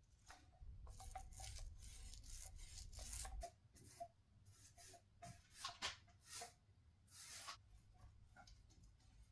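Faint, irregular short rubbing and scraping strokes from hand work on the plywood stool, coming thick and fast for the first few seconds, then spaced out with pauses between them.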